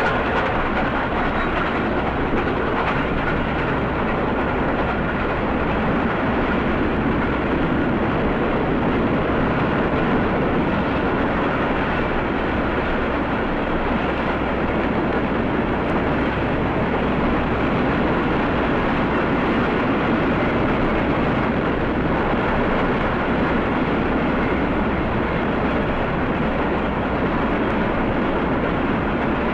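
A steam locomotive and its train running, a steady, even roar without breaks, heard on an old recording with little treble.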